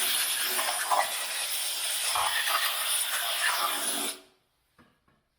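Compressed-air blow gun giving a loud, steady hiss that cuts off sharply about four seconds in.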